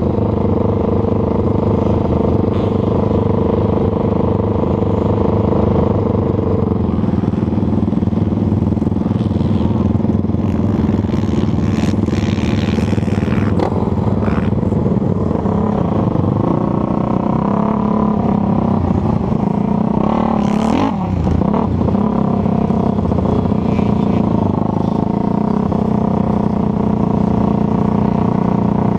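Racing ATV engine running hard, loud and continuous, its pitch shifting with the throttle; about two-thirds of the way through it briefly drops off and climbs back up.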